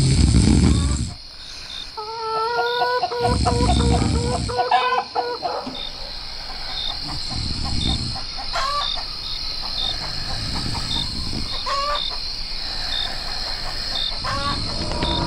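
Chickens clucking, a run of pulsed clucks a few seconds in and short rising calls later, over a steady high hiss with faint regular ticks and intermittent low rumbles.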